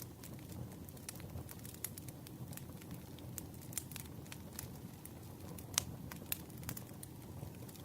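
Campfire burning: a low steady rumble of flames with scattered sharp crackles and pops of burning wood, the loudest pops a little under six seconds in.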